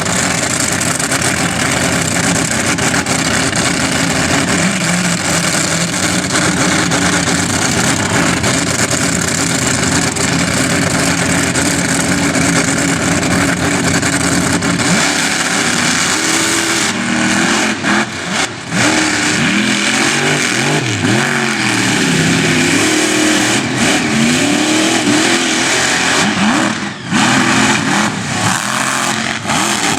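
Monster truck engine running loud and steady, then revving up and down over and over in the second half, dropping off briefly twice.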